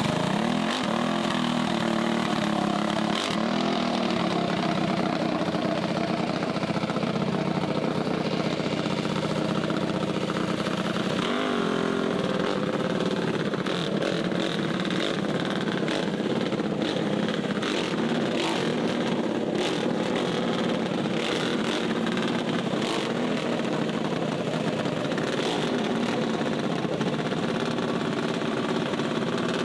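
Mini bike engines running steadily, a continuous small-engine hum whose pitch wavers slightly.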